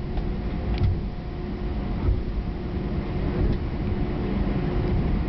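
Airliner cabin noise while the Airbus A319 taxis: a steady low rumble with a constant engine hum, and a few faint clicks.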